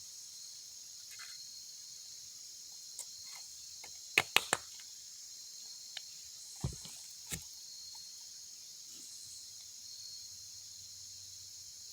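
A steady, high-pitched chorus of insects, with a quick run of three sharp clicks about four seconds in, the loudest sounds, and two more knocks a few seconds later.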